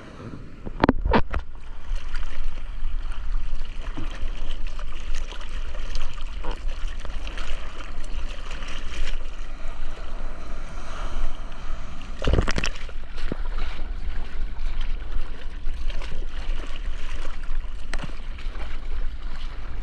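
Seawater splashing and sloshing right against a surfer's GoPro as he paddles in the ocean, with a few sharp knocks about a second in and again near twelve seconds.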